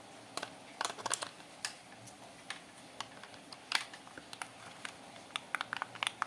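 Irregular sharp plastic clicks and taps, about a dozen spread through, as two batteries are fitted into a toy car's remote control.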